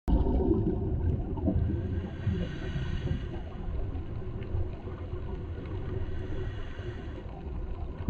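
Underwater ambience around scuba divers: a steady low rumble of water and bubbles, with a few faint short squeaks in the first few seconds.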